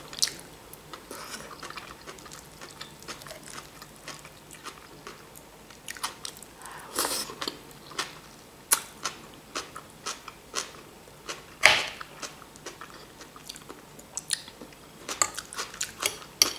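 Close-up chewing of a crisp fresh vegetable salad of lettuce, onion and cucumber: a run of short wet crunches, with louder bites about seven seconds in, near twelve seconds and several near the end.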